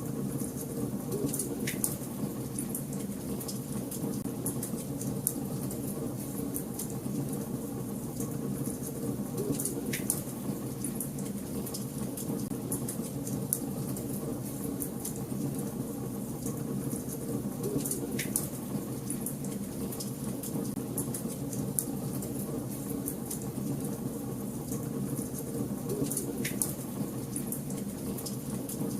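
Fire burning in a fireplace, crackling steadily over a low, even rush of flame, with four louder pops about eight seconds apart.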